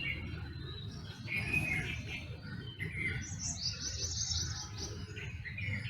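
Several wild birds calling in a dawn chorus: short repeated chirps, with a quick run of rapid high notes lasting about a second and a half in the middle. A steady low rumble sits underneath.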